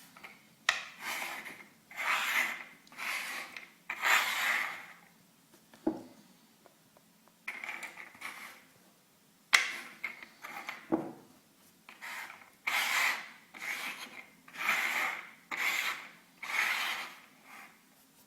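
Repeated scraping strokes, each under a second, in irregular runs, with a few sharp clicks among them.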